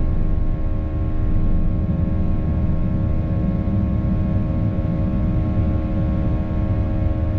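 Cabin noise of a Boeing 737-800 in flight: its CFM56-7B turbofan engines making a steady deep rumble with a cluster of constant humming tones.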